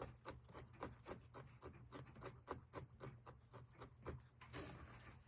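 Fabric scissors snipping through felt in short, faint cuts, about four a second, with a brief hiss about four and a half seconds in.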